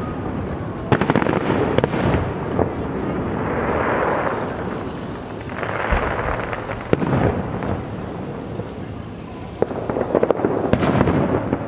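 Fireworks going off: sharp bangs over a rumbling boom, with bursts of rapid crackling about a second in and again near the end.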